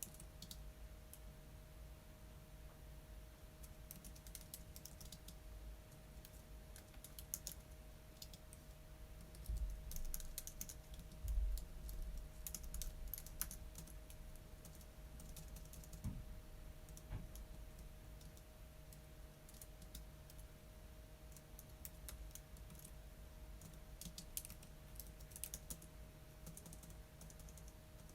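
Computer keyboard typing in short bursts of keystroke clicks with pauses between. A couple of low bumps come about ten and eleven seconds in and are the loudest sounds.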